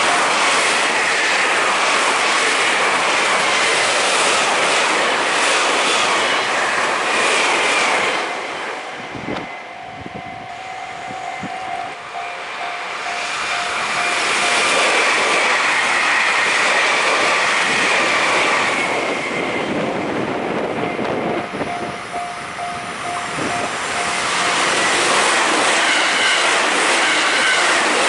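Electric commuter trains passing close by, with wheels clattering over rail joints. The noise eases twice; in those quieter stretches a level-crossing bell can be heard ringing.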